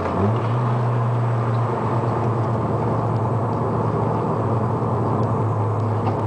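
Mazda RX-7 FD3S's single-turbo twin-rotor engine, heard from inside the car while driving: the engine note rises briefly at the very start, then holds a steady drone over road noise.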